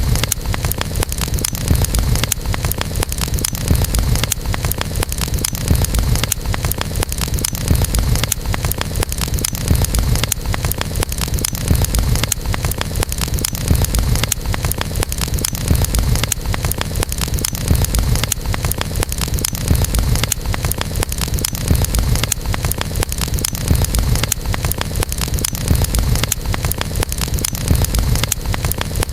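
Wood campfire burning steadily, a dense run of small crackles and pops over a low, steady rumble of the flames.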